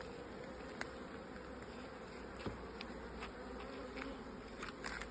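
Honeybees humming steadily around an open hive during a colony inspection, with a few light clicks along the way.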